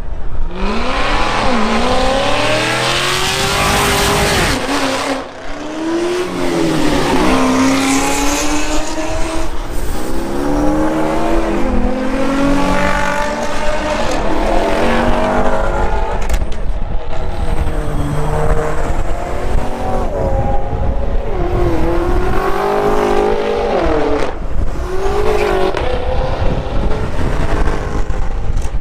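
Car engines being revved again and again, the pitch climbing and dropping with each blip of the throttle.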